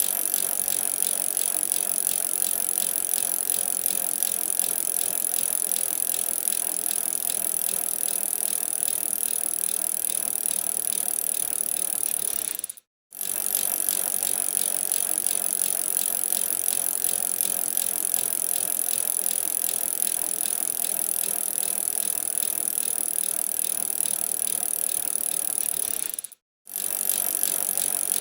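Bicycle being ridden: a steady rattling hiss of tyres and drivetrain, broken by two brief silent gaps, one about halfway through and one near the end.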